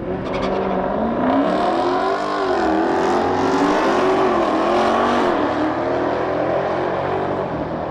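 Modern Hemi V8 muscle cars running down the drag strip. The sound grows louder about a second in, then the engine pitch rises and dips several times as the cars pull through the gears.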